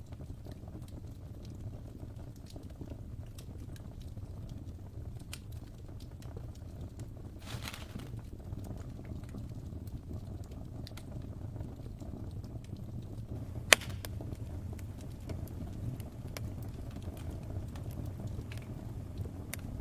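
Wood fire in a fireplace crackling: a steady low rumble of flames with scattered small crackles, a brief hiss about seven and a half seconds in, and one loud sharp pop a little past halfway.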